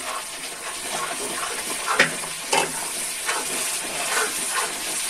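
Onion-and-spice masala frying in oil in a pan, sizzling steadily as wet tomato purée is stirred in. A ladle scrapes and knocks against the pan several times.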